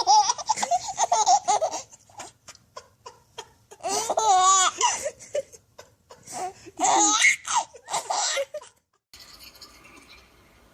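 A young child laughing in three bouts of high-pitched, wavering laughter, then it goes quiet about nine seconds in.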